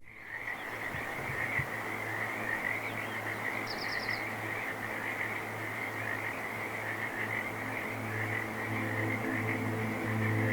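A steady chorus of frogs calling, with a brief high trill about four seconds in. Music fades in near the end.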